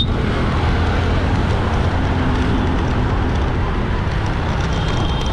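Motorbike riding through busy traffic: a steady engine and road-and-wind rumble, with a brief high-pitched tone near the end.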